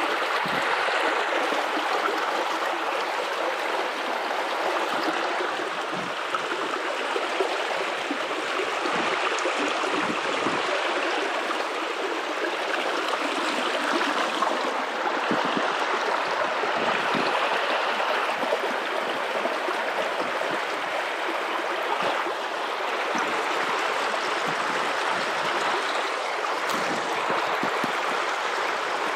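A river running over shallows, with a steady rushing and small gurgles.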